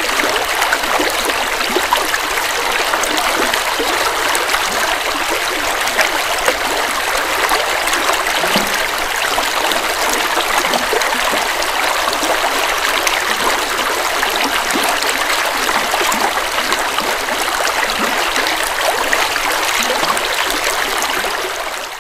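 Forest river water flowing over rocks: a steady rushing and burbling stream.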